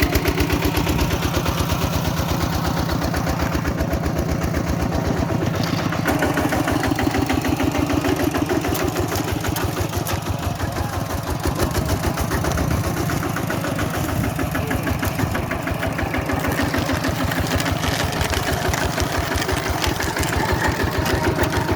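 Tractor engine running steadily, a fast, even chugging that holds throughout.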